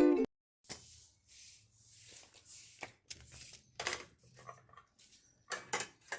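Scattered sharp clicks and short rustling, scraping noises of small parts and objects being handled, over a faint steady hum. A ringing intro jingle cuts off right at the start.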